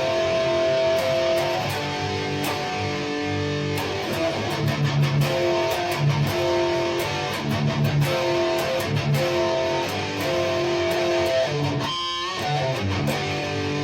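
Electric guitar played through a Mesa/Boogie Dual Rectifier amplifier fitted with EL34 power tubes and ECC83 preamp tubes: sustained chords in a repeating progression, each ringing about a second, with a brief break about twelve seconds in.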